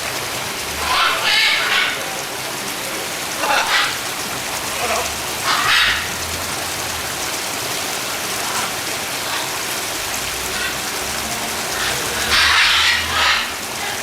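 Heavy rain falling steadily, with short snatches of people's voices over it a few times.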